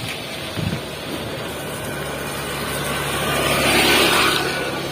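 A motor vehicle's engine running steadily over a noisy background, growing louder to a peak about four seconds in and then easing off, as if passing close by.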